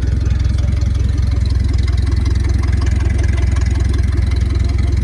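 An engine idling steadily, with an even, fast low pulse.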